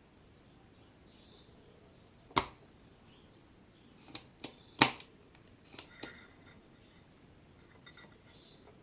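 A series of sharp, separate clicks and knocks against a quiet room. Two louder ones come about two and a half seconds apart, with several fainter ones in between and after.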